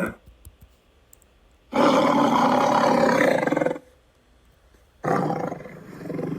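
A big cat roaring: two long roars, the first starting about two seconds in and lasting about two seconds, the second starting about five seconds in.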